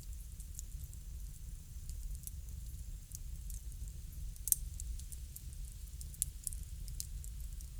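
Wood fire crackling: scattered sharp pops and snaps over a low steady rumble, with a louder pop about halfway through and another about six seconds in.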